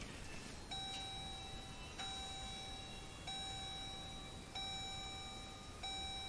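A vehicle's dashboard warning chime sounding five times, evenly about every 1.3 seconds, each chime ringing on until the next.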